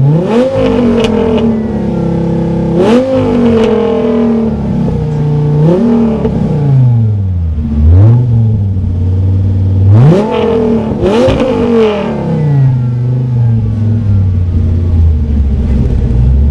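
Alfa Romeo TZ3 Stradale's Dodge Viper V10 being blipped about six times, each rev climbing sharply and falling back, before it settles to a low, steady idle near the end.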